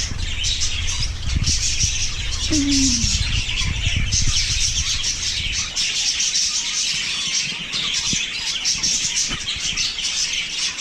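A dense chorus of many small wild birds chirping and chattering continuously, with a low rumble on the microphone through the first half.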